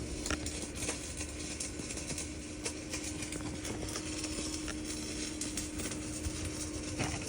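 Stick welding arc running a 7018 rod on AC, vertical up: a continuous crackling sizzle with a steady hum underneath. The plate has some paint on it, which the welder says gives the arc some problems.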